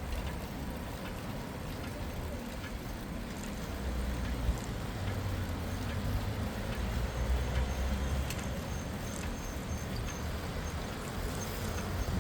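City street sound heard from a moving bicycle: steady traffic and road noise, with a low rumble swelling in the middle as a vehicle passes. A faint, rapid high ticking runs through the second half.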